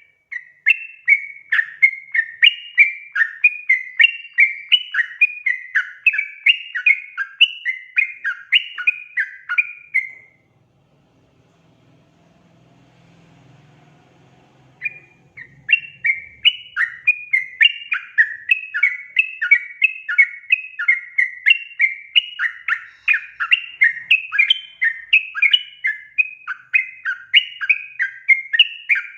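Yellow-vented bulbul (trucukan) singing a fast, bubbling chatter of short rising and falling notes, the energetic 'gacor' song used as a lure call; it breaks off about ten seconds in, is silent for about four seconds, then resumes.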